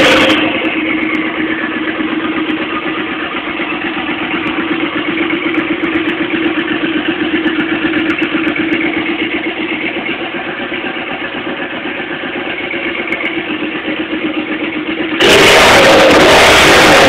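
Turbocharged Suzuki Boulevard M50 V-twin motorcycle engine idling with a steady drone, after a loud rev that dies away at the very start. It is blipped hard again about two seconds before the end.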